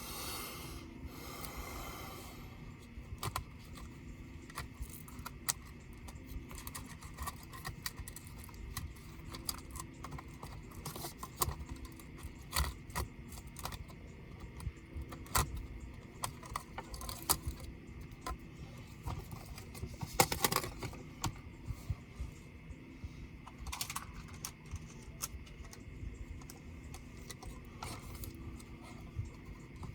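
Irregular light clicks, taps and small rattles of tools and parts being handled while a laptop is taken apart, with short scraping noises near the start and about twenty seconds in.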